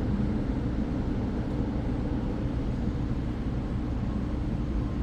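Steady low rumble of an MTR M-train electric multiple unit.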